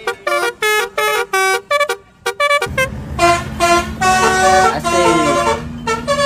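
Basuri telolet horn playing a tune: a quick run of short pitched toots, then from a little under halfway longer melodic notes over a steady low drone.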